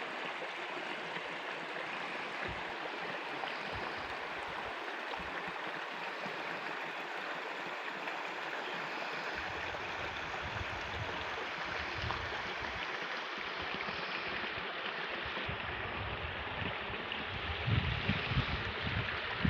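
A stream of water rushing steadily through the gorge. Wind buffets the microphone in low gusts in the second half, growing stronger near the end.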